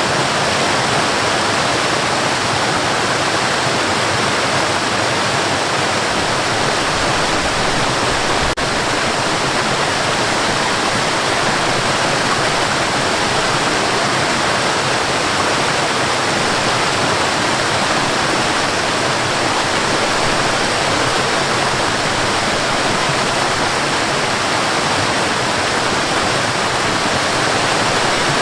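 Waterfall rushing in a steady, dense roar of falling water. The sound dips for an instant a little over eight seconds in.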